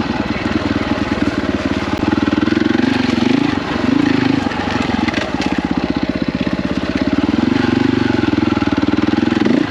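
KTM 450 EXC enduro bike's single-cylinder four-stroke engine running under load on the trail, its revs rising and falling as the rider works the throttle.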